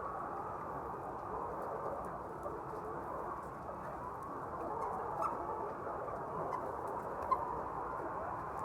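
A flock of chickens making a steady mass of overlapping clucks and chatter, with one brief tick about seven seconds in.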